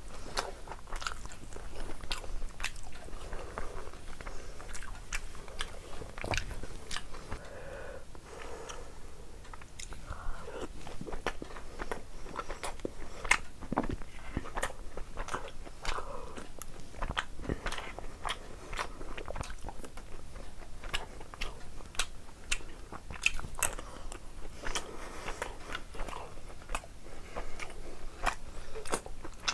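Close-miked chewing and wet mouth smacks of a person eating soft food, with many short sharp clicks and no pause.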